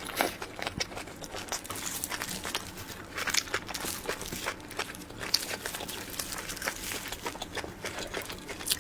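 Close-miked chewing of soft, cream-filled sponge cake roll: a string of irregular short wet mouth clicks, several a second.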